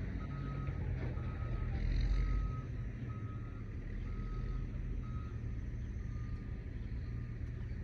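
A vehicle's reversing alarm beeping steadily, one short beep about every second, growing fainter after about five seconds, over the low rumble of an engine running.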